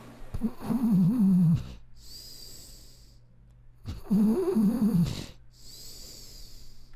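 A dog making two long throaty, snore-like sounds with a wavering pitch, each about a second and a half long, a few seconds apart.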